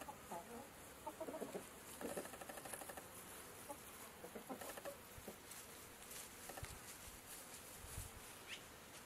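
Chickens clucking softly in short, scattered calls over a faint steady hiss, with one brief high rising chirp near the end.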